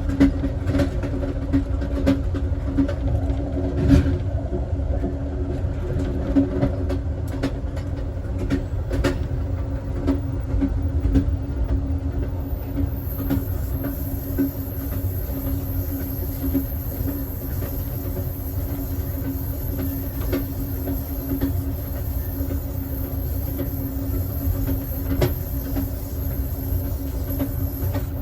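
Amtrak Southwest Chief passenger car rolling along the track, heard from inside the last car: a steady low rumble with a constant hum and occasional sharp knocks from the wheels, most of them in the first ten seconds or so.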